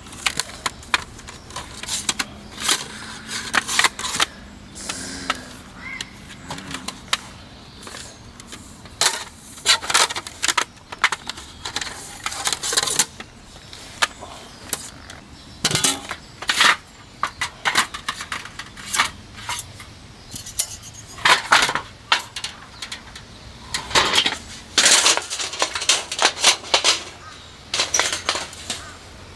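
Irregular light clicks and clattering of small hard objects being handled, some with a metallic ring.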